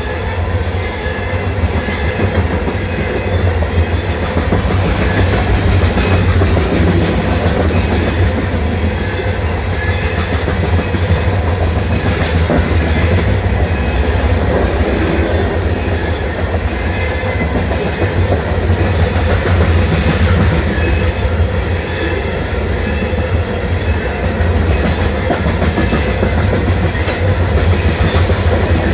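Union Pacific freight train of tank cars rolling past, steel wheels clattering over the rail joints over a steady, loud rumble.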